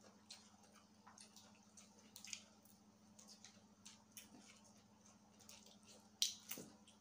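Quiet eating sounds: scattered wet mouth clicks and smacks of chewing food eaten by hand, the sharpest a little past six seconds in.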